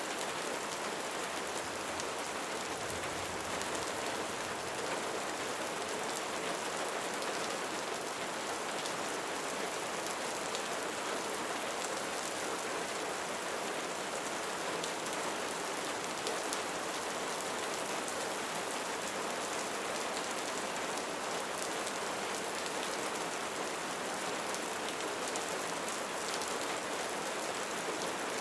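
Steady rain falling on a roof, a dense even patter of drops with no thunder.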